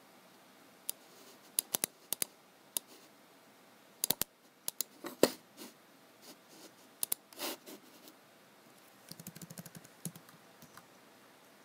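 Irregular clicks and taps of computer work: mouse clicks and single key presses, a few of them louder, then a quick run of typing on a keyboard about nine seconds in.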